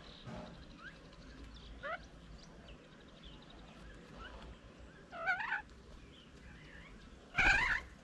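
Birds calling: scattered short chirps and whistles, with two louder, harsh, wavering calls about five seconds in and just before the end.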